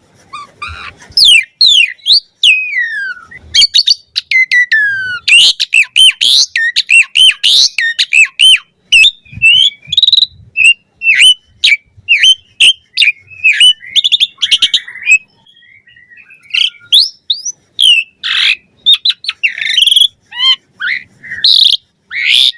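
Jalak suren (pied starling) singing a fast, varied string of whistles, rising and falling glides and sharp chirps, with a short lull about two-thirds of the way through.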